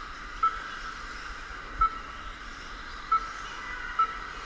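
Four short high-pitched electronic beeps at uneven intervals, typical of an RC race lap-timing system sounding as cars cross the timing loop, over a steady background hiss.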